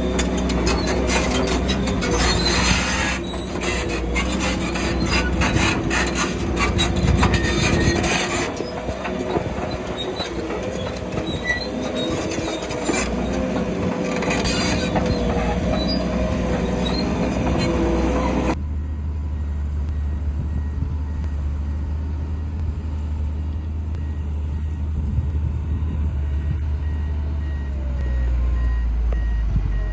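Crawler bulldozer's steel tracks clanking and squealing over its running diesel engine. About two-thirds of the way through, the sound changes abruptly to a low, steady diesel rumble, with a faint reversing alarm beeping near the end.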